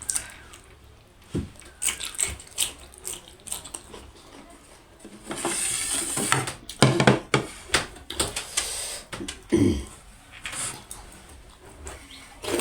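Close-up eating sounds: chewing with wet mouth clicks and crackly smacking, irregular and bunched, with a few sharper snaps.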